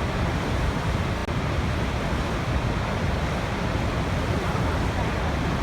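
Waterfall: a steady, unbroken rush of falling water, deepest and strongest in the low end.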